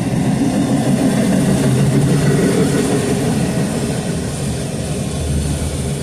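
Freight train cars rolling past, with a steady rumble of wheels on the rails that is slightly loudest about two seconds in.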